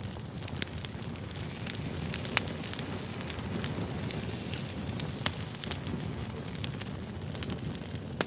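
Firewood burning: a steady low rustle of flames with irregular sharp crackles and pops from the wood, two of them louder, about two and a half and five seconds in.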